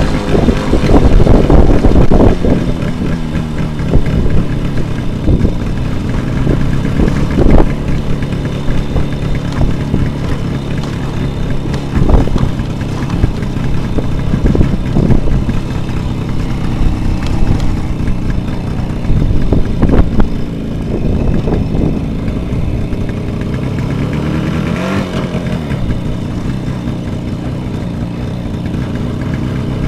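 Jawa 638 two-stroke twin motorcycle engine running at a mostly steady pitch, with scattered knocks. About 25 seconds in it revs up briefly and falls back, then settles to a steadier, quieter running near the end.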